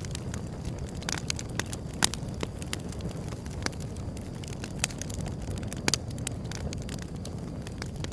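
Wood fire burning: a steady low rumble with frequent, irregular sharp crackles and pops, the loudest about two seconds in and again near six seconds.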